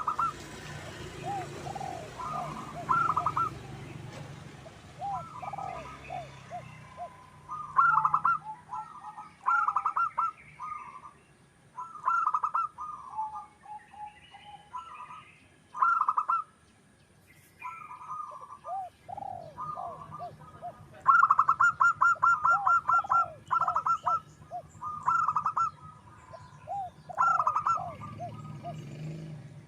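Zebra dove cooing: short bursts of quick staccato coos repeating every second or two, with softer, lower curving notes in between. A longer rapid run of notes comes about two-thirds of the way through.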